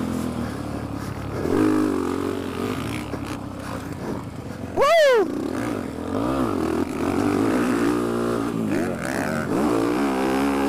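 Dirt bike engine revving up and down as the bike is ridden around a motocross track, heard from a microphone inside the rider's helmet. About halfway through there is a brief, louder rev that rises sharply and falls away.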